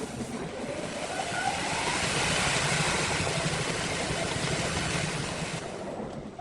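An engine or motor-driven machine running steadily; its pitch rises about a second in, and the sound dies down near the end.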